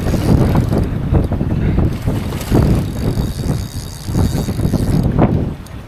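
Strong wind buffeting the microphone, a loud low noise that rises and falls in gusts.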